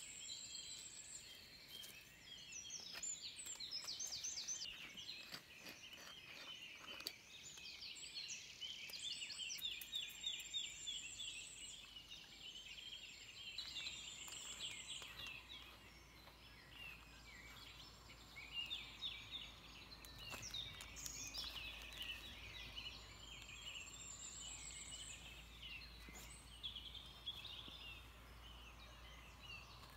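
Faint chorus of small birds, many rapid trills and chirps overlapping, with a few sharp clicks in the first ten seconds.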